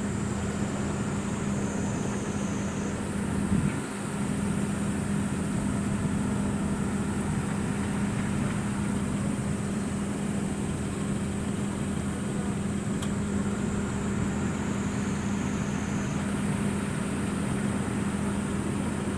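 A steady machine hum: a constant low drone under a wash of noise, with a faint high whine, level throughout.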